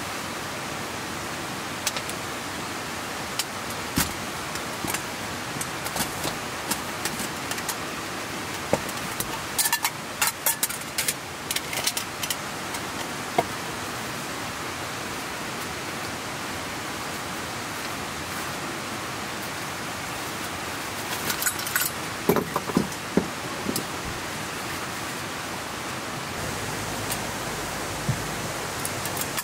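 Steady rain falling as an even hiss, with a few scattered clicks and knocks about ten seconds in and again around twenty-two seconds in.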